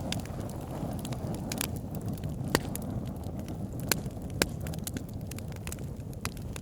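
Campfire burning: a steady low rumble of flames with irregular crackling. Three sharper, louder pops come about two and a half, four and four and a half seconds in.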